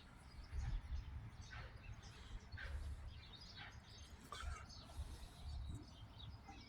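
Birds chirping here and there, short scattered calls, over a steady low rumble.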